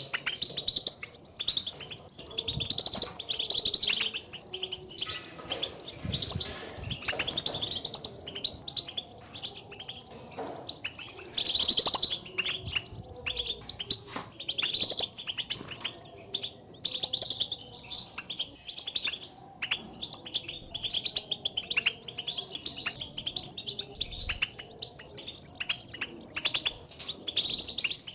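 European goldfinch contact calls ('batbata'): quick runs of short, high chirps repeated over and over, the calling goldfinches use to signal each other rather than their full song.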